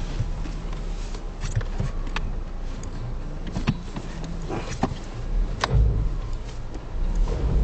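A vehicle engine running low and steady, with scattered clicks and knocks.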